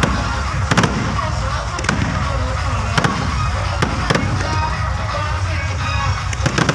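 Fireworks going off in a string of sharp bangs at uneven intervals, roughly one or two a second, over a steady low rumble, with music and voices in the background.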